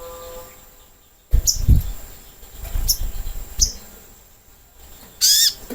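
Short high chirping calls of a sogok ontong sunbird, four in all, the last near the end the loudest, with a low thump about a second and a half in.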